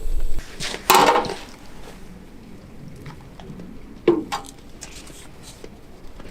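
Handling sounds at a campsite: a sharp knock about a second in and another around four seconds, with scattered small clicks between them.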